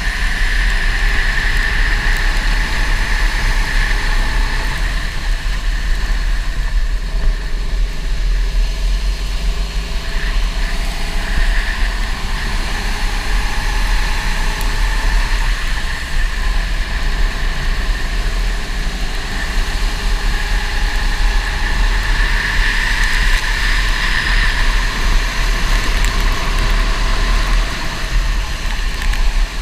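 Go-kart engine running and revving up and down in slow rises and falls over a steady low rumble.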